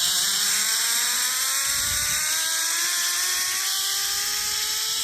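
Zipline trolley pulleys running along the steel cable: a steady whine that rises slowly in pitch as the rider picks up speed, over a loud rushing hiss.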